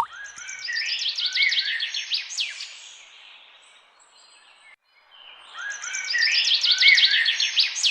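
Small birds chirping in two bursts of quick, falling chirps, each lasting about three seconds, with a short pause between them. The second burst repeats the first almost note for note.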